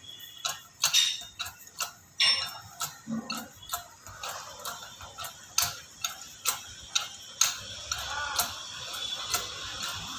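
Hydraulic bottle jack's metal parts clicking and clinking in an irregular series of sharp taps, several a second.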